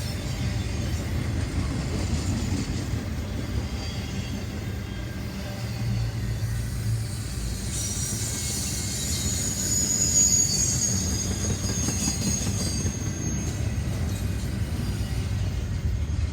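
Train rolling past on the rails with a steady low rumble, and a thin high wheel squeal from about eight to thirteen seconds in.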